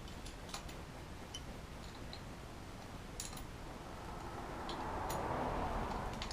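Scattered light clicks and taps, irregular, about one or two a second, with a hiss that swells about four seconds in and holds to the end.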